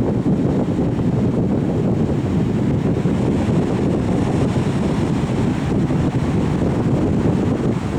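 Steady wind buffeting the microphone, a dense low rumble with no breaks.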